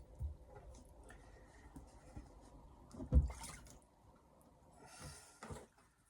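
Water dripping and trickling while a wet whetstone is handled, with a sharp knock about three seconds in and a few lighter knocks near the end.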